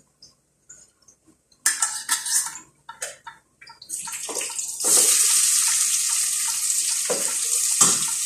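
Sliced onion going into hot oil with garlic and ginger, first with a few clatters and rustles, then a loud, steady sizzle starting about five seconds in.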